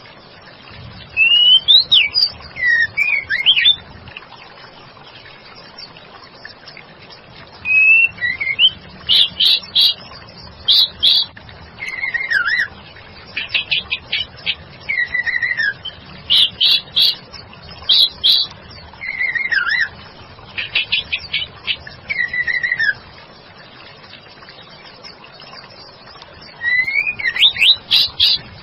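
Female white-rumped shama singing: spells of clear whistled notes that glide down in pitch, mixed with quick chattering trills, with pauses of a few seconds between spells.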